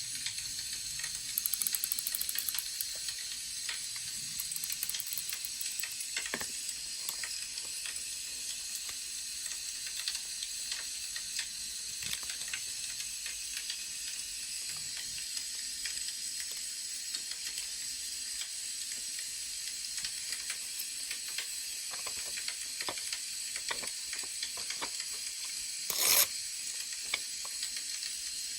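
Wood fire crackling: a steady hiss with scattered small pops and clicks, a dense run of crackles about a second and a half in, and a brief louder burst near the end.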